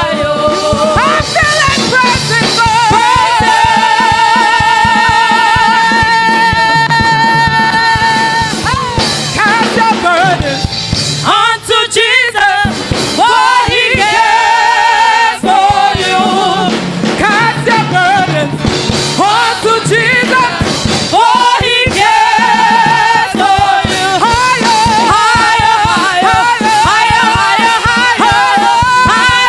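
Gospel worship singing with instrumental backing and a steady beat; the voice holds long notes with vibrato, for several seconds near the start and again in the last part.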